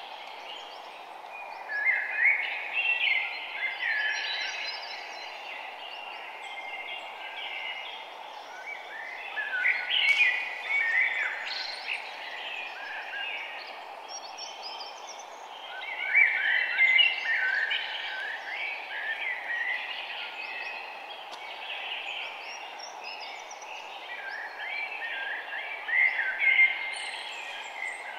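Small birds chirping and twittering in several bursts of a second or two, over a steady background noise.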